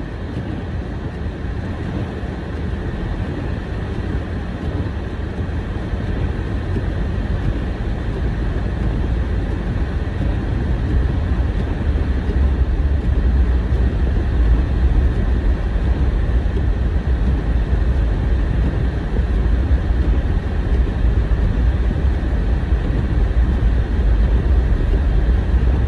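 Car cabin noise while driving: a steady low rumble of engine and tyres, growing slowly louder.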